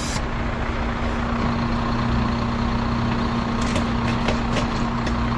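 Heavy recovery truck's diesel engine running steadily with a constant hum. A short hiss of air comes right at the start, and a few faint clicks come about four seconds in.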